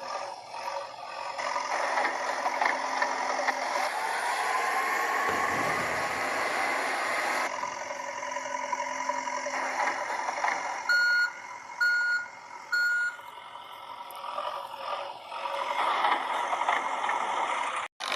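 Toy truck's electronic sound effects: a steady engine-like noise with a slow rising whine, then three reversing beeps about a second apart.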